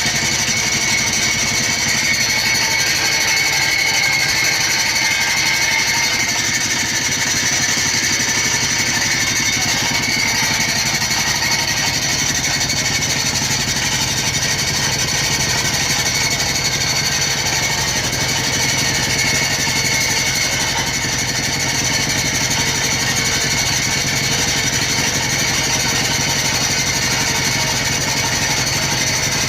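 Stainless-steel grinding machine running steadily, with a fast even rattle under a constant high whine.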